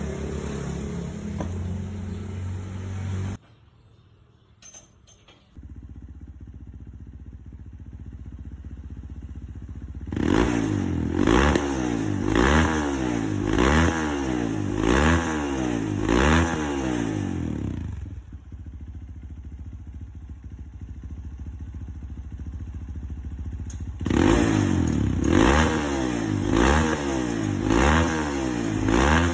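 Rebuilt Honda CRF single-cylinder four-stroke engine, bored up to 200 cc, running. It cuts off suddenly a few seconds in, then idles and is blipped again and again, the revs rising and falling about once a second in two runs separated by idling.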